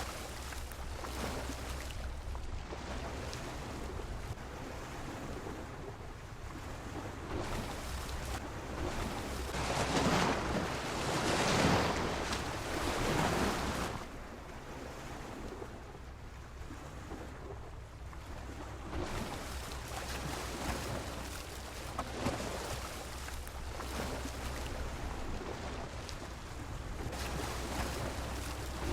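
Sea waves washing and breaking against a pier, a steady rush of surf with one bigger wave surging up about ten seconds in and falling away a few seconds later.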